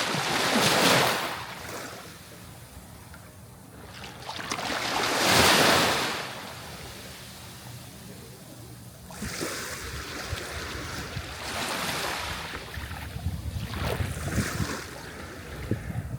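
Sea waves washing onto the shore. Two swells rise and fall away, about one second in and again around five seconds in, followed by a longer, lower wash full of small crackles.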